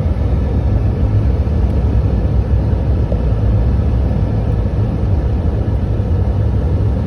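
Steady low rumble of a vehicle running, heard from inside it.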